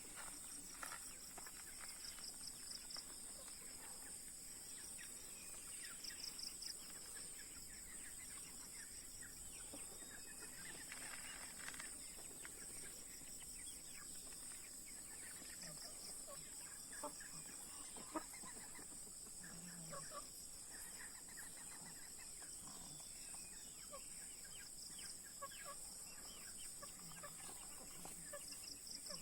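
Broiler and village chickens clucking softly now and then, with scattered light ticks, over a steady high-pitched drone.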